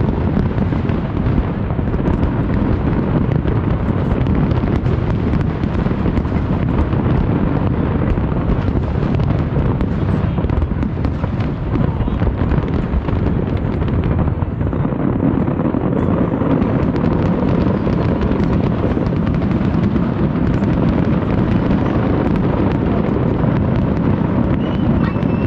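Fireworks going off in a dense, continuous barrage: many bangs close together, merging into a steady low rumble.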